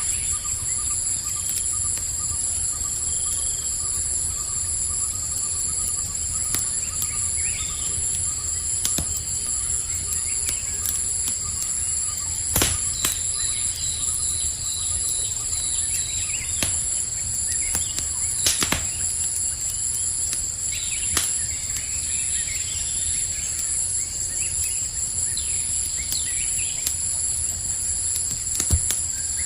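Campfire crackling, with scattered sharp pops, the loudest about a third and two-thirds of the way in and near the end. Behind it runs a steady, high, pulsing insect chorus like crickets, with a few short bird chirps.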